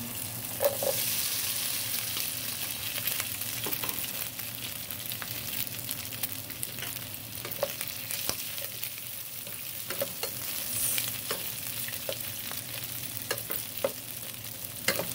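Shredded chicken frying in hot oil in a pan, sizzling loudest in the first few seconds after it goes in, with a spatula scraping and tapping against the pan as it is stirred.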